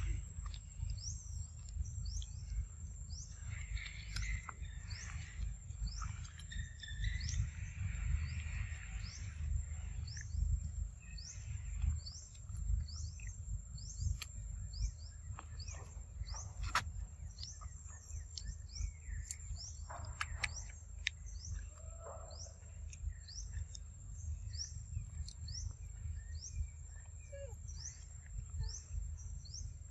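A small bird repeats a short, high, falling chirp about one and a half times a second, evenly, over a steady low rumble.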